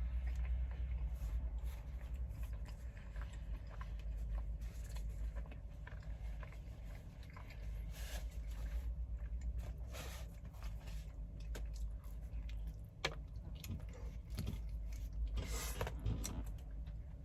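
A man biting into and chewing a slice of thin-crust chicken bacon ranch pizza, with small crunches and mouth sounds at irregular moments, over a steady low hum.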